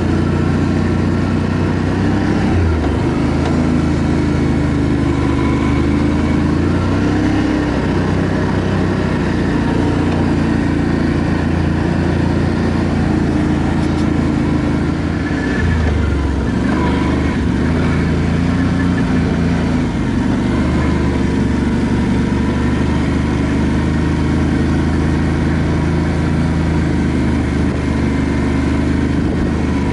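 ATV engine running as the quad is ridden along a dirt trail, its note steady with a couple of dips and pick-ups in pitch as the throttle changes.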